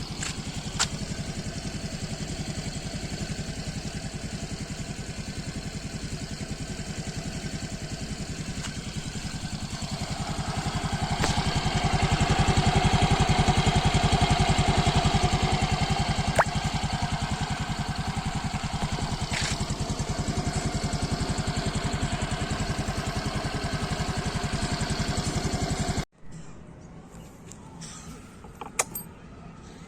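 Yamaha RayZR 125 Hybrid scooter's 125 cc air-cooled single-cylinder engine idling at the exhaust. About ten seconds in it is revved up and held for several seconds, then drops back to idle. It cuts off abruptly near the end, leaving a few faint clicks.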